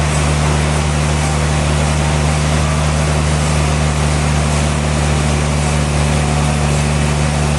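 Sawmill machinery running steadily: a loud, constant low engine drone that holds the same pitch throughout.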